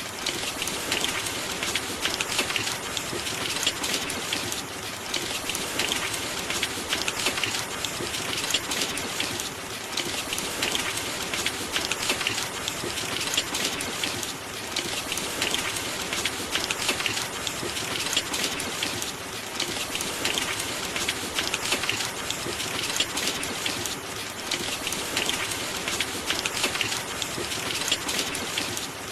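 Steady rain falling on a hard surface, a dense patter of drops that eases slightly about every five seconds.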